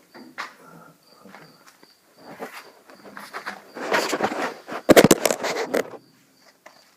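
A cricket chirping in a steady run of short, high chirps, about two a second, under scattered handling noise. About four seconds in comes a burst of louder rustling and clattering, the loudest sound, which stops about a second later.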